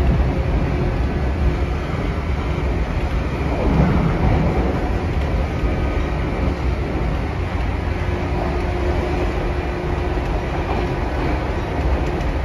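Steady running noise heard from inside a JNR-era 455/413-series electric multiple unit under way: a continuous rumble of wheels on rail and car body, with a faint steady hum.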